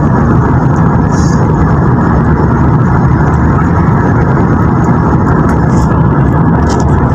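Steady, even rumble of a car driving along a highway.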